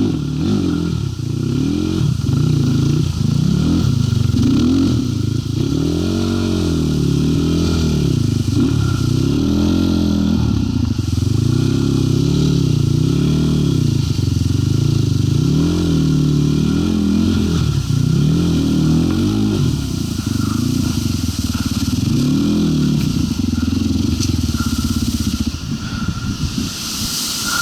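Zuum NC300 enduro motorcycle engine, its revs rising and falling every second or two under constant throttle changes while riding off-road, easing off near the end.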